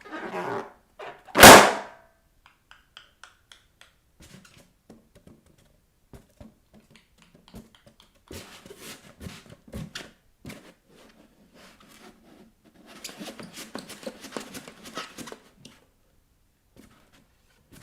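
A rubber balloon squeaks and rubs under bare feet, then bursts with one loud pop about a second and a half in. Later, two longer stretches of bare soles scratching and rubbing against balloon rubber, with scattered soft taps between.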